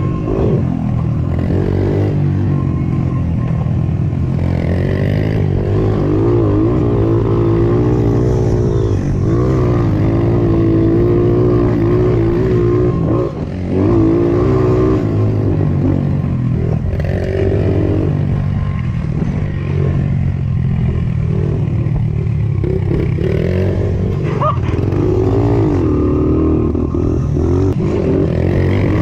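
Mini moto engine revving up and down under riding, its pitch rising and falling over and over, with a brief drop off the throttle about thirteen seconds in.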